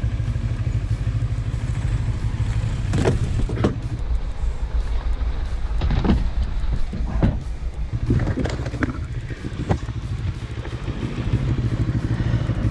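Motorcycle on the road: a steady low rumble of engine and wind noise, broken by a series of short sharp knocks and clicks between about three and ten seconds in.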